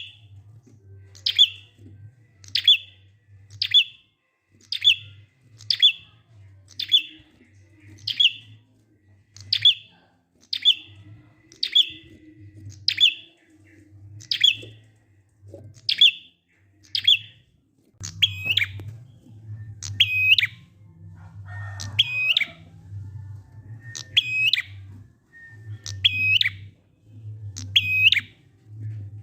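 A prinia (prenjak) calls a sharp, high note over and over, about once a second, with a low hum underneath. About two-thirds of the way in, the notes take a hooked shape and come a little more slowly. It is a 'ngalun' lure song, used to get silent prinias to start singing.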